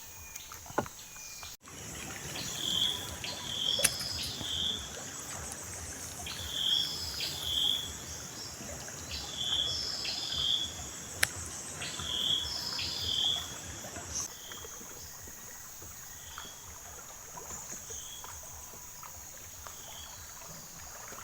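Riverside forest ambience: a steady high insect drone, with a bird repeating a short group of whistled notes about every three seconds, fainter after the middle. A few sharp clicks stand out above it.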